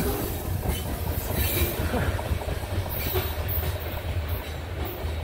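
Freight train cars rolling past on steel wheels, a low rumble with faint knocks, fading as the end of the train moves away.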